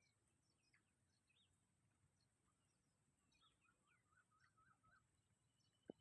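Near silence with faint bird calls: scattered high chirps and, midway, a short run of quick repeated notes. A single sharp click just before the end.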